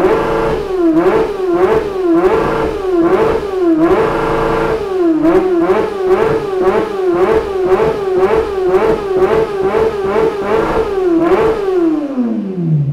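1999 Honda CBR600F inline-four engine revved through a Dan Moto GP-style aftermarket exhaust: a long series of quick throttle blips, each a rise and fall in pitch, coming fastest in the middle, with a few held revs, then dropping back toward idle near the end.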